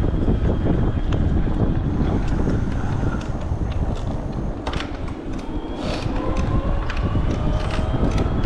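Wind rushing over the camera microphone on a moving e-bike, a dense low rumble with scattered clicks and rattles. In the second half a faint whine rises slowly in pitch.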